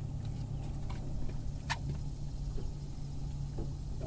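Boat motor running steadily while trolling, a low even hum, with one sharp click a little under two seconds in.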